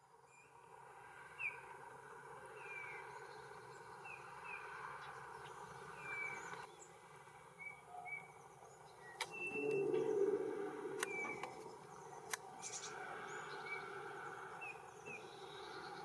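Small birds calling: short high chirps, each a quick slide in pitch, repeated every second or so. About ten seconds in there are a few sharp clicks and a brief lower rushing noise, the loudest moment.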